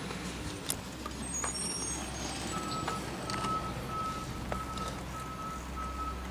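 Garbage truck's engine running with a low rumble, and about two and a half seconds in its back-up alarm starts beeping in a steady single-pitched series, about three beeps every two seconds.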